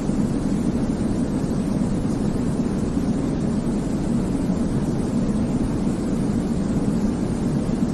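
Baby-sleep white-noise track: a steady, unbroken deep rushing noise, weighted toward the low end so it sounds more like a rumble than a hiss, with no rhythm or changes.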